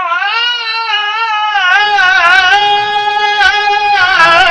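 A Quran reciter's voice holding one long melodic note in tajweed style, drawing out the word 'wa-wajadaka' with a wavering, ornamented pitch that steadies about two seconds in.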